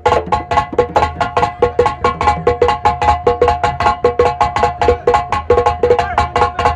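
Senegalese assiko percussion music: fast, dense drum and wood-block-like strokes, about eight to ten a second, over a steady held tone.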